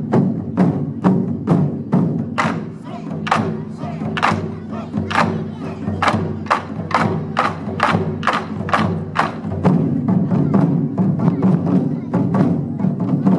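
Japanese taiko drums played in a steady, driving rhythm: sharp wooden strikes about two to three a second over a continuous deep drum rumble.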